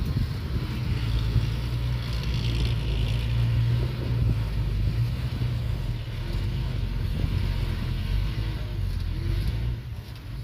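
Diesel engine of heavy earthmoving machinery running, a steady low rumble.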